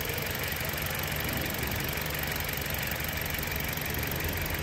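Toyota Corolla's ZR-series inline-four petrol engine idling steadily, heard over the open engine bay.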